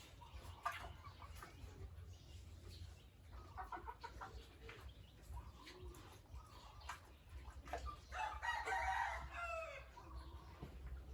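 Farmyard chickens clucking faintly, then a rooster crowing once about eight seconds in, its call falling in pitch at the end.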